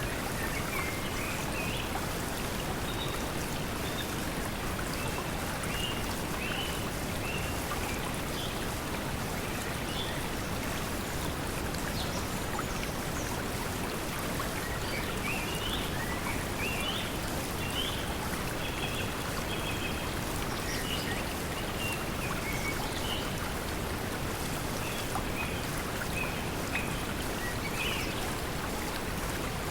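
Steady pink noise mixed with a flowing stream, with birds chirping briefly at intervals through the middle of the stretch.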